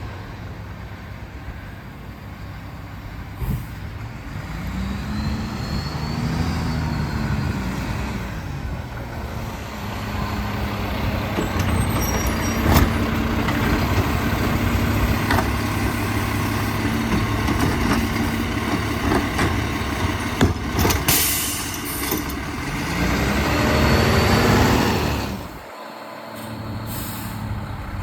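Mack LEU garbage truck's diesel engine revving up and settling back twice as its Bridgeport body packs trash, with scattered knocks. A sharp air hiss comes about two-thirds of the way in.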